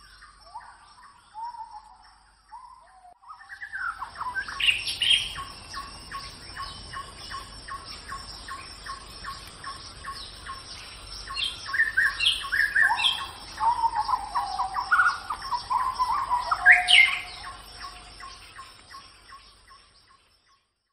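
Birds calling: many quick chirps mixed with squawking calls that slide up and down in pitch. They start about three seconds in, are loudest in bursts near the middle and toward the end, and fade out at the very end.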